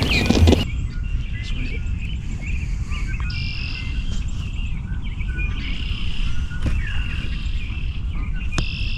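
Songbirds chirping and calling, short quick notes and little glides, over a steady low rumble.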